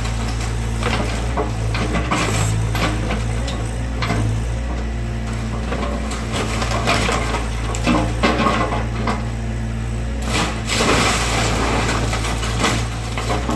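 Excavator demolishing a wooden garage: wood cracking, splintering and crushing in irregular bursts over the steady running of the machine's diesel engine.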